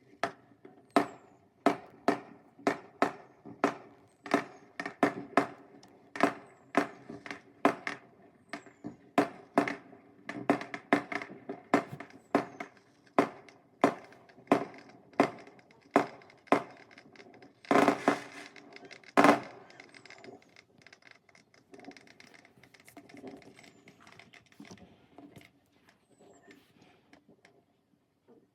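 A rapid barrage of firework bangs, about two a second, with two louder bangs near the end of the barrage, followed by fainter firework crackling that dies away.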